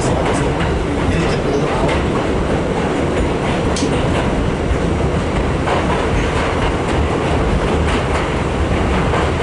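New York City subway D train running in the tunnel, heard from inside the car: a steady loud rumble with scattered clicks and clacks as the wheels pass over rail joints.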